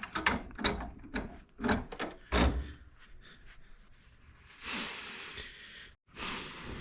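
Small metal gearbox parts clicking and knocking against each other as a scooter's cruciform and shift rod are fitted into the layshaft, followed by a couple of seconds of softer scraping.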